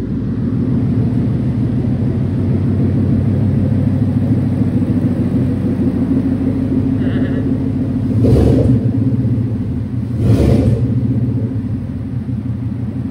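Ford Coyote 5.0 DOHC V8 idling steadily soon after its first start, with two brief louder swells about two seconds apart.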